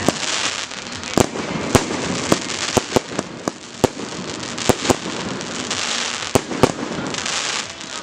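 Fireworks display: shells bursting in a rapid, irregular series of sharp bangs, about two a second, over a continuous noisy hiss.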